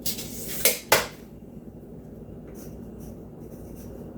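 Steel tape measure retracting: a short zipping hiss of the blade winding in, ending in a sharp metallic snap and a second, louder click as the hook hits the case about a second in. A few faint light ticks follow.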